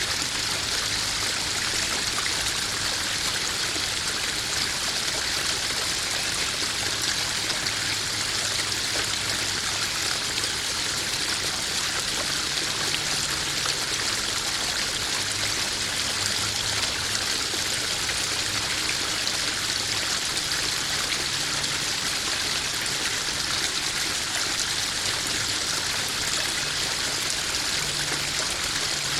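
Small garden waterfall spilling into a koi pond: a steady splashing and trickling of water.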